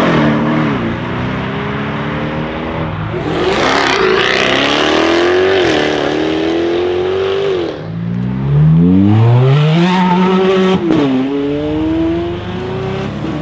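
Sports cars accelerating hard away one after another: an Audi RS6 C7 Performance with an Akrapovic exhaust, then a Jaguar F-Type, then a Ferrari F430. Each engine note climbs steeply and drops back at every upshift.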